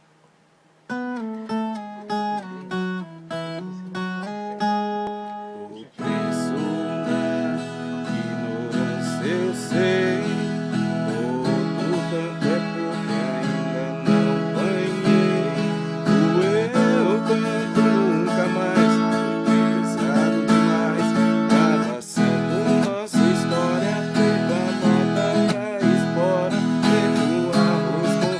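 Viola caipira, the Brazilian ten-string folk guitar, being played: single plucked notes start about a second in. About six seconds in it breaks into fuller playing with chords and quick runs.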